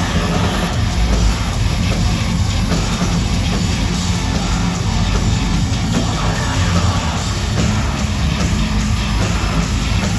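Heavy rock band playing live at a loud, steady level, with a drum kit and guitars.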